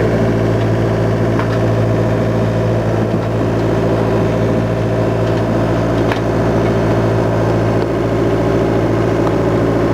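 A sailing yacht's diesel engine running steadily under motor, an even, unbroken drone.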